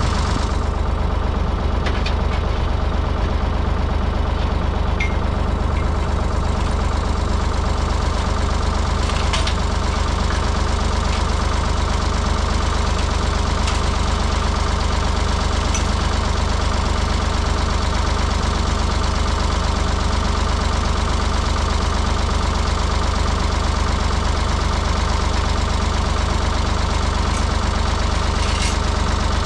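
Ford 555 backhoe loader's engine running steadily at a low, even speed.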